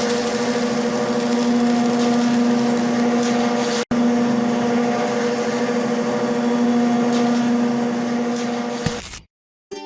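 A small motor running steadily with a constant whine. It cuts out for a moment about four seconds in, comes back, and dies away near the end.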